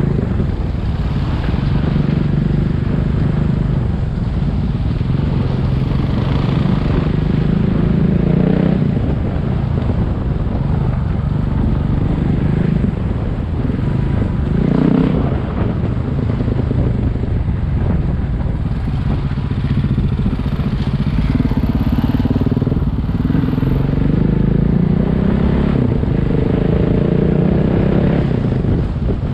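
Single-cylinder dual-sport motorcycle engine running under way, its pitch rising and falling repeatedly as the throttle is worked, with wind rumble over the microphone.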